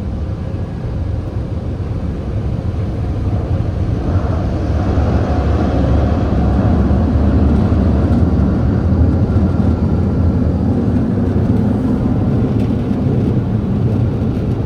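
Touch-free car wash dryer blowers running, heard from inside the car as a loud, steady rush of air with a deep rumble. It swells over the first several seconds, then holds steady.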